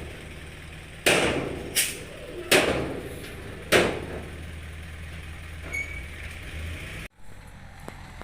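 Heavy diesel machinery running steadily, with four loud bangs in the first four seconds. The sound cuts off abruptly about seven seconds in.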